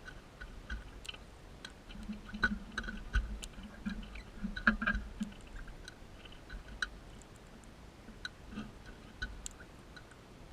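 Crimson rosella feeding: irregular sharp clicks and crunching as its beak works on seed, busiest in the first half.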